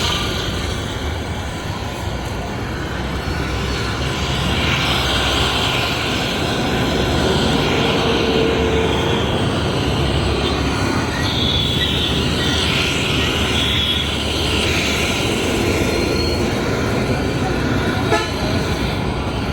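Steady street traffic with a few short horn toots partway through, and a single sharp knock near the end.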